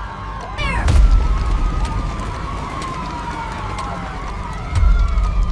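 Emergency sirens wailing, their pitch slowly gliding up and down, with a deep boom about a second in and another near the end.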